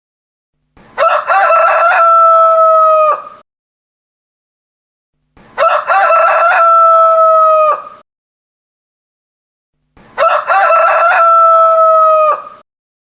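Rooster crowing three times, evenly spaced, each crow about two and a half seconds long and ending on a long held note, with dead silence between the crows.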